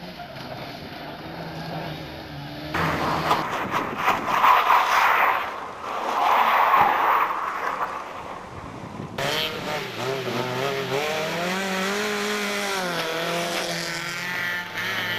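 Rally cars at speed: a faint engine note at first, then a stretch of loud tyre-sliding noise that swells twice, then an engine revving up and down with quick gear changes.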